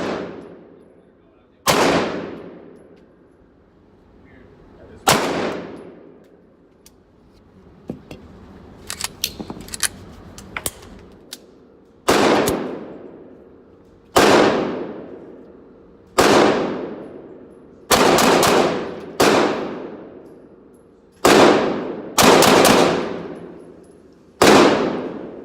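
9mm handgun fired ten times in slow, uneven single shots, each shot ringing out in a long echo; the shots come quicker in the second half, some about a second apart. A few light metallic clicks come between the early shots.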